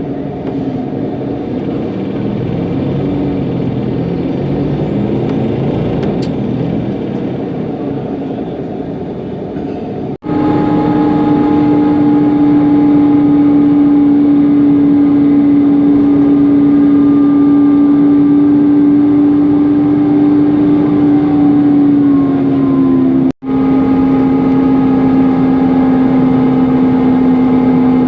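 Inside a Mercedes-Benz Conecto NGT city bus with its OM 936 G natural-gas engine, running in traffic: engine and road noise with shifting tones. After a brief dropout about ten seconds in, a loud, steady whine from the engine's cooling fan takes over. Its pitch sinks slightly about two-thirds of the way through, and there is another brief dropout just after.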